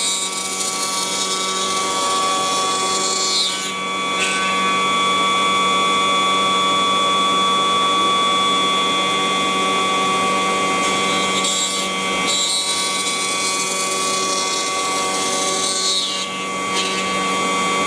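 CNC wood router carving wood: the spindle runs with a steady whine under the hiss of the bit cutting. The hiss eases briefly about three and a half seconds in and again near the end.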